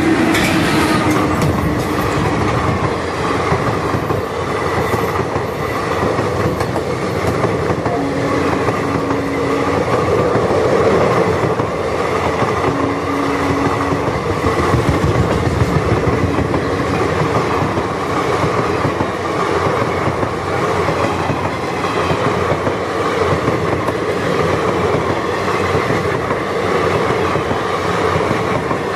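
Indian Railways passenger train passing close by: an electric locomotive and then a long rake of coaches, a steady rumble with wheels clattering over the rail joints. The noise jumps up right at the start as the locomotive reaches the spot and stays loud as the coaches go by.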